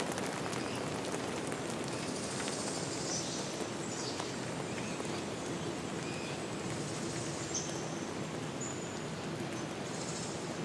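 Forest ambience: a steady, even wash of noise with a few short, high bird chirps scattered through it.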